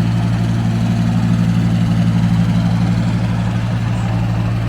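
Diesel engine of a miniature railway locomotive running steadily, low and even, with no change in speed.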